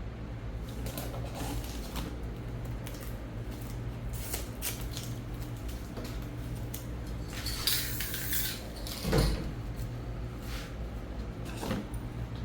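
Clicks and knocks of spray-paint cans and tools being handled on a work surface, with a short spray-can hiss of about a second just past halfway and a louder knock about nine seconds in, over a steady low hum.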